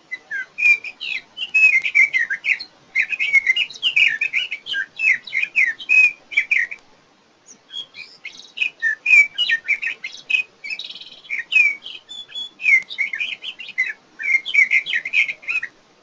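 Sage thrasher singing its long, run-on song: a fast, unbroken string of varied warbled phrases, with one short pause about seven seconds in before it carries on.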